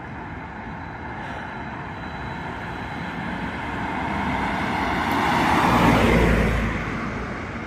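A road vehicle passing close by over steady traffic noise: engine and tyre noise grows louder, peaks about six seconds in, then fades away.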